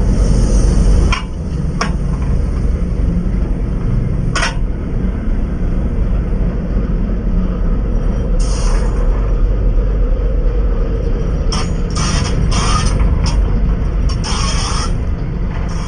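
Train rolling directly over a microphone set beneath the track: a loud, steady low rumble, with sharp clanks from the wheels, a few in the first seconds and a cluster from about halfway on.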